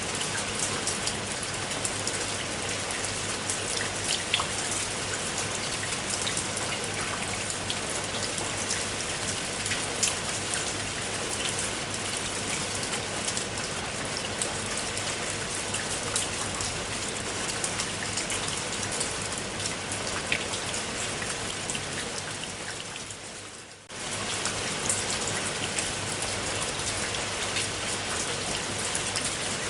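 Steady rain with scattered individual drops ticking on a surface. About three quarters of the way through, the sound briefly fades down and comes straight back.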